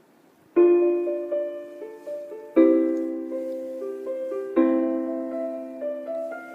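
Piano playing slow chords, one struck about every two seconds and left to fade, with a few single melody notes moving between them.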